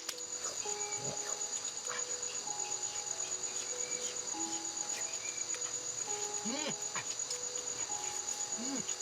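Crickets trilling in a steady, high, rapidly pulsing chorus, over soft background music of gently held notes.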